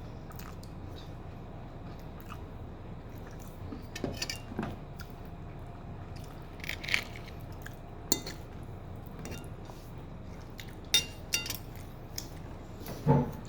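Cutlery clinking and scraping against a plate in a handful of scattered, separate clinks over a steady low background hum, as food is served and cut for eating.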